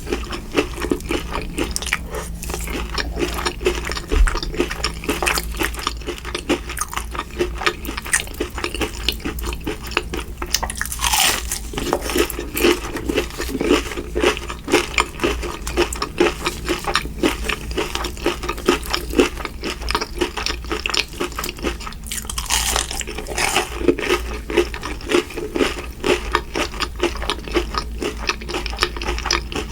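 A person chewing and biting crunchy food with steady, rhythmic crunching, from a meal of Mi Goreng noodles and fried shrimp. There are two brief louder rushes of sound, about 11 seconds in and again about 23 seconds in.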